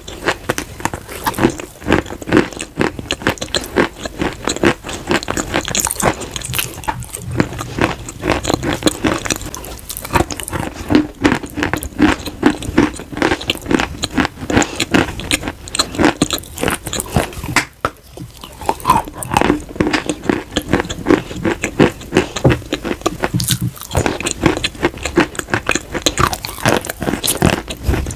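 Close-miked chewing of crunchy chalk and clay pieces coated in creamy paste: a dense, continuous run of sharp crunches, with a brief lull about eighteen seconds in.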